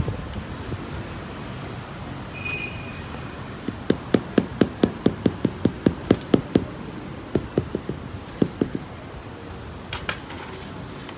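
Hammer tapping rapidly, about three or four knocks a second, in two runs with a short pause between them.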